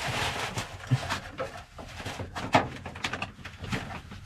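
Rustling and handling noises of insulation being fitted, with a run of sharp clicks and knocks.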